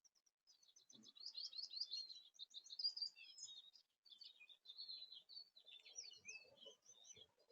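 Small songbirds chirping in rapid, overlapping runs of high twittering notes, with a short break about halfway through. A few faint low knocks come near the end.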